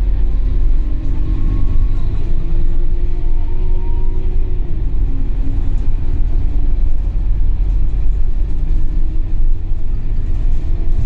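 Scania DC9 diesel engine of a Scania K280UB bus running under way: a loud, steady low rumble with engine tones that rise slowly and then drop back about four and a half seconds in.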